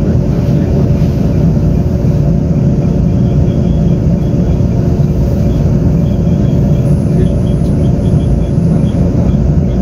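Inside a Taiwan Railways Tze-Chiang express passenger car running at speed: a steady low rumble of wheels on rail with a constant hum. Faint light rattling ticks come in over the second half.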